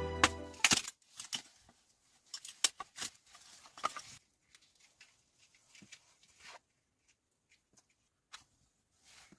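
Background music stops about a second in. After it come sparse, soft clicks, crackles and rustles of something being handled, thinning out toward the end.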